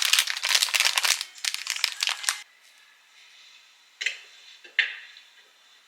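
Crinkling and rustling, in close bursts for about two and a half seconds, then two short crisp sounds near the end, like packaging being handled.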